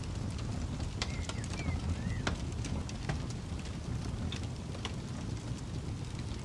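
Campfire burning: scattered sharp crackles and pops of burning wood over a steady low rumble, with a few short high chirps mixed in.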